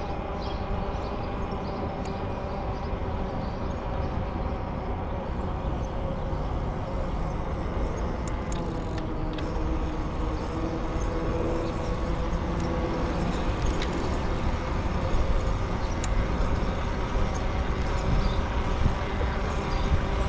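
Steady rolling rumble of a bicycle ride, tyres on the path, with a faint steady hum and scattered light ticks, growing a little louder in the second half.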